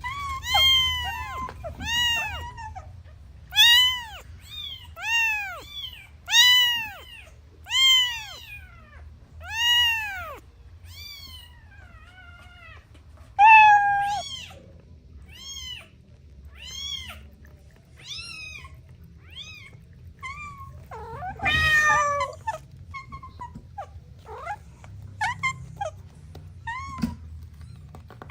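Kittens meowing over and over in high, arched calls. For about the first ten seconds loud single meows come roughly once a second. After that, fainter meows overlap at different pitches, with one longer, harsher call a little past the two-thirds mark.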